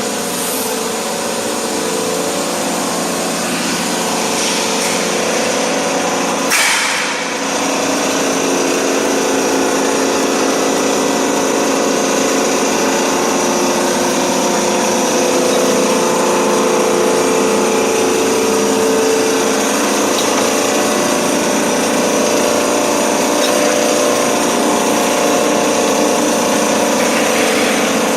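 Galvalume roll-forming machine running steadily, its motor and forming rollers giving a continuous hum, with one short, sharp noise about six and a half seconds in.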